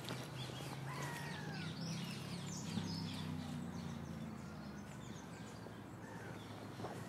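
Small birds chirping and calling, with a few falling whistled notes about a second in. Underneath runs a steady low hum that swells in the middle.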